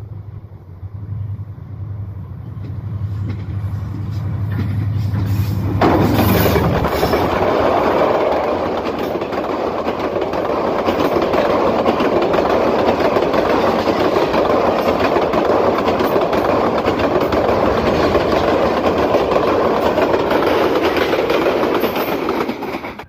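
Diesel locomotive of an express passenger train approaching, its engine drone growing louder; about six seconds in it passes close by and a loud, steady rumble and rush of coach wheels on the rails takes over as the carriages go by at speed, stopping abruptly near the end.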